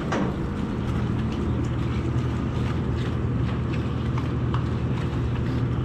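Skid steer engine running at a steady speed, with a few light clicks and rattles.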